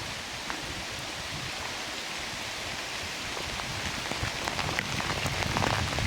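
Steady rain falling in a redwood forest, an even hiss with many small drops pattering, growing denser and louder near the end.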